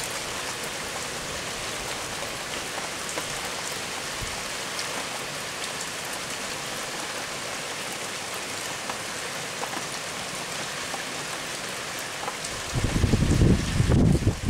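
Steady rain falling, with scattered ticks of single drops. About a second and a half before the end a loud, choppy low rumble cuts in over the rain.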